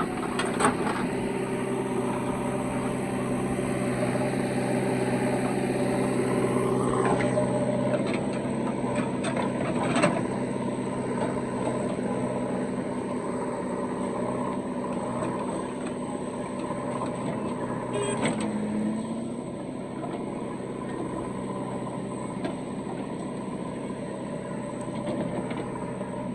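Diesel engines of a JCB 3DX backhoe loader and tractors running steadily, with a few sharp knocks of the machinery at work, the loudest about ten seconds in.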